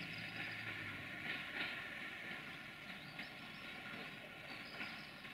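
A train moving at a railway station: rail noise with a few steady high tones, and a low hum that fades out about a second in.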